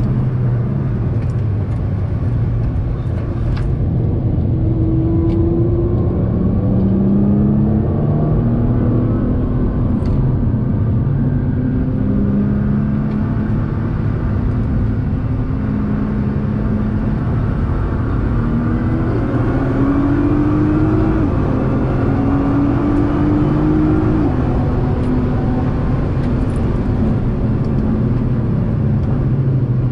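Nissan GT-R R35's twin-turbo V6 heard from inside the cabin while being driven hard on a race track. Its pitch repeatedly climbs with each pull, drops sharply at gear changes, and falls away when lifting for corners.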